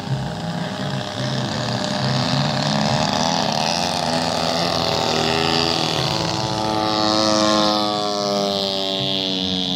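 Radio-controlled model airplane engine and propeller in flight, running steadily, then its pitch rising and falling from about halfway through as it flies past.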